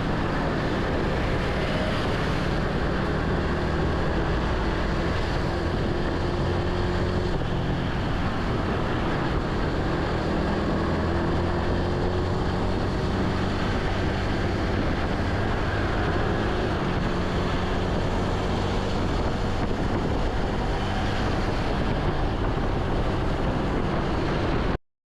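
Motorcycle engine running steadily on the move, with wind rushing over the microphone. The sound cuts off suddenly near the end.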